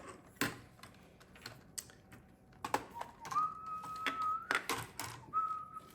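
Plastic Lego bricks clicking and rattling as pieces are handled and pressed together, in irregular sharp ticks. Twice in the second half a thin, steady high note is held for about a second.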